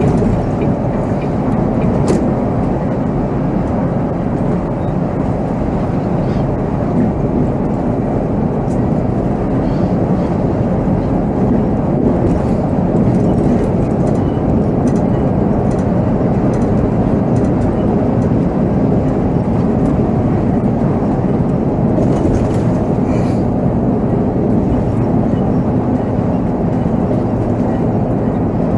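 Volvo B7R coach on the move, heard from the driver's cab: its diesel engine and road noise make a steady drone, with a few light clicks and rattles on top.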